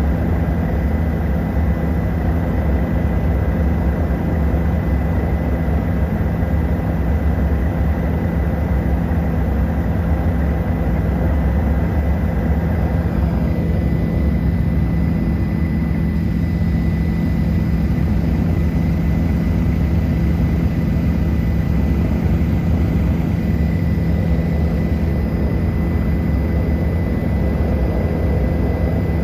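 Helicopter in flight: a steady engine and rotor drone with a constant thin whine above it, turning slightly duller about halfway through.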